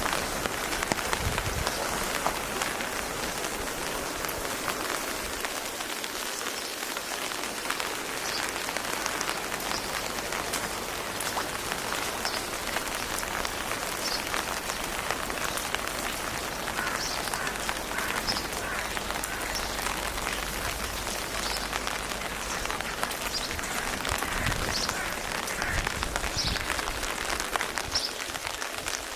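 Steady rain with many fine drops pattering on a surface.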